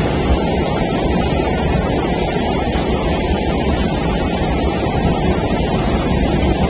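Floodwater rushing down a street, a loud steady rush of water.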